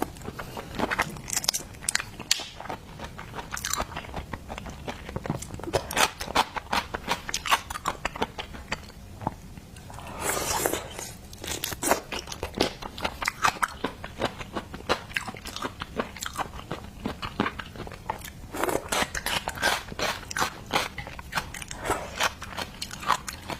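Close-miked eating of seafood: wet chewing and biting with many small irregular crunches and clicks, plus two longer noisy rushes about ten seconds in and near the end.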